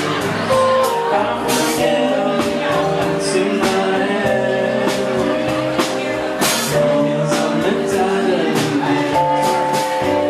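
Live rock band playing: held keyboard and guitar chords over bass and a drum kit with cymbal crashes, with singing.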